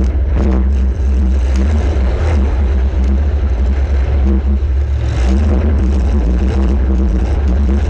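Demolition derby compact car's engine running hard under load, heard onboard as a heavy, steady rumble, with a few sharp knocks from metal contact.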